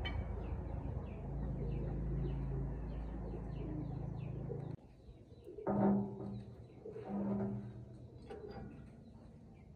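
Birds chirping in a quick repeating pattern over a steady low rumble, which stops abruptly about five seconds in. Two short, low cooing calls follow about a second and a half apart, typical of a dove.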